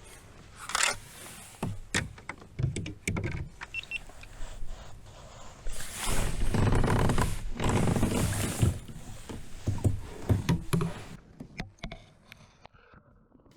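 Irregular knocks, clicks and rattles of handling on a fishing kayak, with a louder rushing noise lasting about three seconds from about six seconds in.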